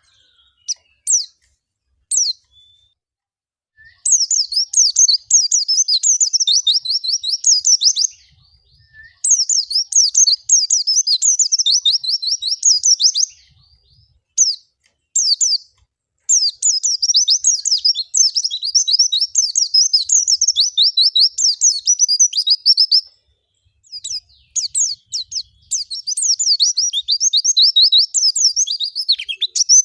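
White-eye (pleci) singing long, fast, high twittering phrases several seconds each, broken by short pauses, with a few single chirps near the start. This is the continuous 'ngalas' gacor song used as a trigger recording to get caged white-eyes singing.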